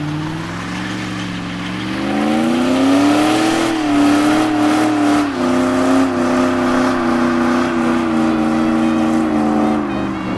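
Turbocharged engine of a Factory Five '35 truck running under load: its pitch climbs about two seconds in, steps down a little around five seconds, holds steady, then drops near the end.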